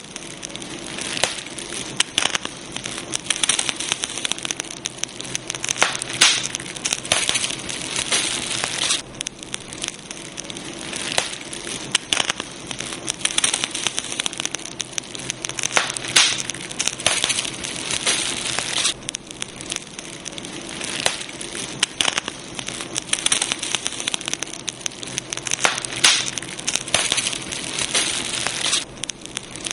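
Campfire crackling steadily, with dense irregular pops and snaps and a few louder clusters of snapping.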